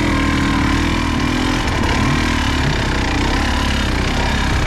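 Off-road motorcycle engine running steadily at even, low revs, like idling.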